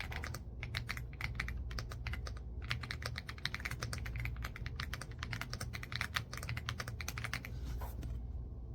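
Fast typing on an AULA F75 mechanical keyboard with pre-lubed linear Reaper switches: a dense, even run of keystrokes with a few short pauses, which stops shortly before the end.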